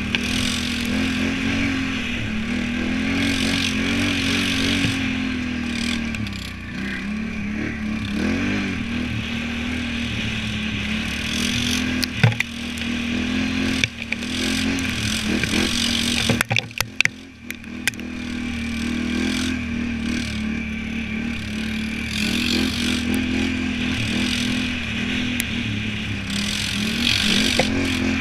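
Can-Am Renegade 1000 ATV's V-twin engine revving up and down as it is ridden, the engine note rising and falling continuously. A few sharp knocks, and a brief dip in the engine sound about two-thirds of the way through.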